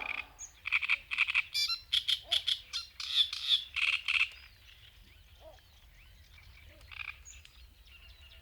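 Frogs calling: a quick run of short, repeated calls for the first four seconds or so, then one more call near the end over faint outdoor background.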